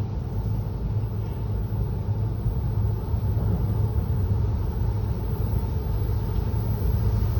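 Freight train passing close by with a steady low rumble.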